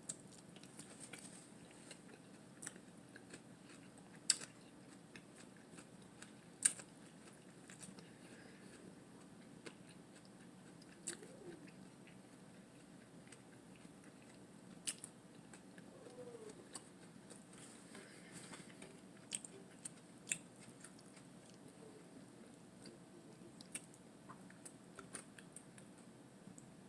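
Chewing and biting into a lettuce wrap, with scattered sharp crisp clicks over a faint steady hum.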